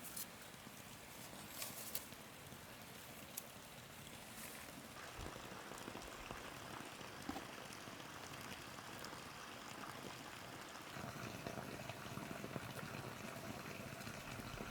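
Faint water sounds, a steady bubbling or trickling, with a few light clicks in the first few seconds.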